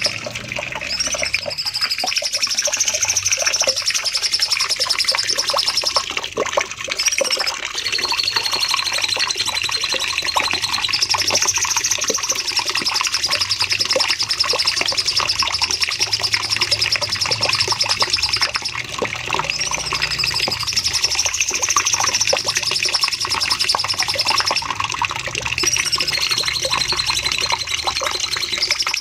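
Cucak cungkok songbird singing long, rapid high trills ('nembak panjang'). Each long high trill is followed by a short rising note and then a lower, steadier trill, and the same sequence comes round again, as in a looped tutor recording.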